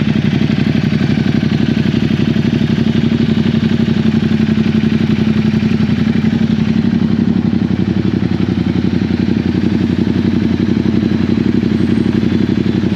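Ducati 1260 V-twin motorcycle engine running loud and steady, its firing pulses even, with no revving.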